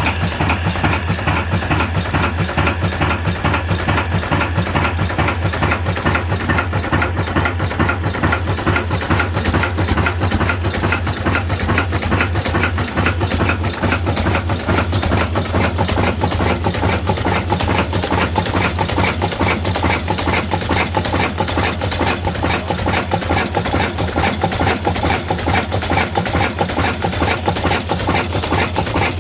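Old black diesel engine running steadily, with a rapid, even clatter.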